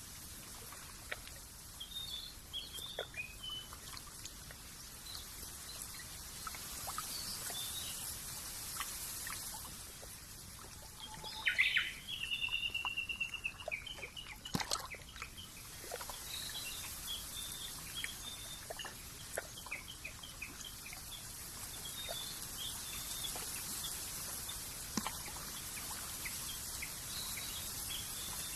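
Birds chirping over a steady soft hiss of outdoor ambience. A louder call a little before halfway drops into a short even trill, and a single sharp tick follows soon after.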